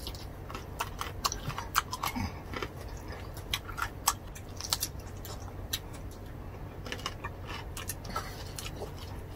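Close-miked mouth sounds of two people biting and chewing soft roast pork (lechon): many short, sharp clicks and smacks at irregular intervals.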